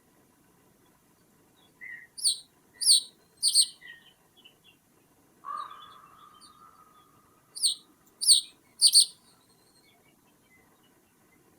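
A bird calling in two bursts of three sharp, high, downward-slurred calls about half a second apart. Between the bursts comes a single lower drawn-out note that trails away.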